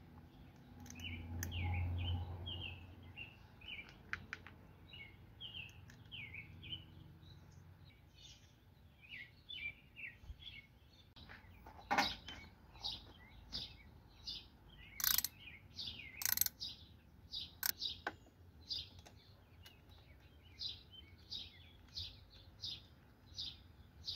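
Small birds chirping repeatedly, with a few sharp clicks and knocks from handling the battery cable's metal terminal at the post, the loudest about halfway through. A low rumble near the start.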